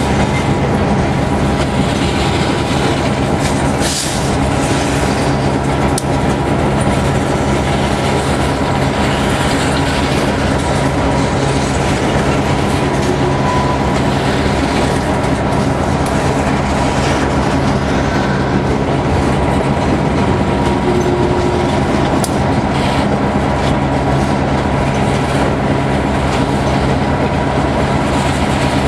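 Freight train passing with a steady rumble, its wheels clacking over rail joints.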